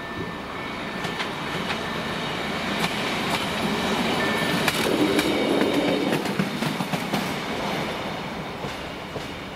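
A train passing, its wheels clicking over the rail joints, growing louder to a peak about halfway through and then fading.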